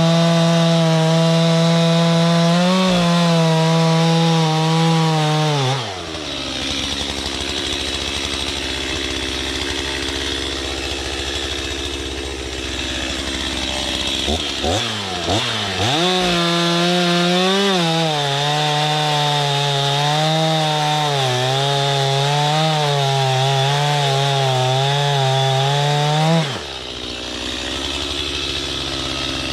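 Two-stroke chainsaw at full throttle cutting wood, its pitch wavering as the chain bogs in the cut, then dropping to idle about six seconds in. It revs up again at about fifteen seconds, cuts for about ten seconds more, and falls back to idle near the end.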